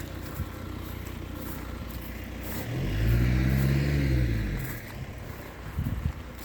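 A car passes close by, its engine sound swelling and fading over about two seconds, with steady low traffic hum behind. A couple of short knocks come near the end.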